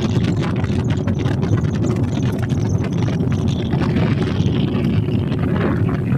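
Boat engine running steadily as the boat cruises, a dense low rumble with wind buffeting the microphone.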